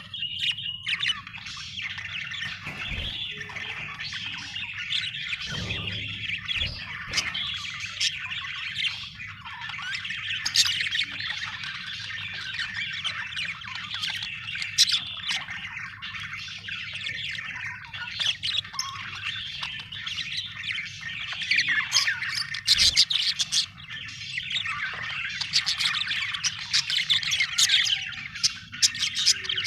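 Budgerigar chatter: continuous warbling and chirping with many sharp chirps and squawks, busiest near the end.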